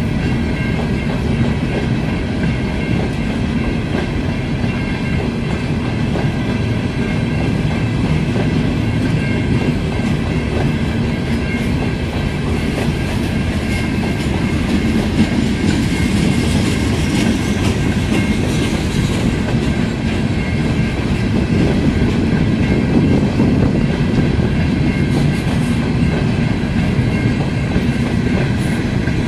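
Freight train of hopper cars rolling past, wheels clattering and rumbling over the rails, with faint steady high-pitched ringing from the wheels.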